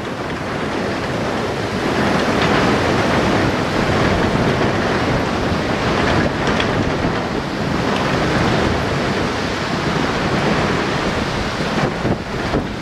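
Passenger cars rolling steadily across a steel truss bridge, mixed with the rush of river rapids below and wind on the microphone. The noise fades near the end as the last car clears the bridge.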